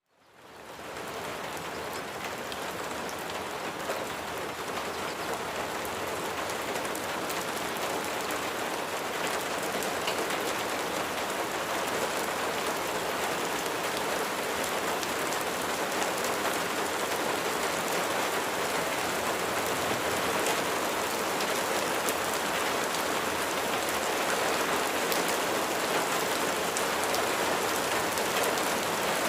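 Steady rain falling: an even hiss of rain on a surface with scattered light drop ticks. It fades in over about the first second, then holds steady.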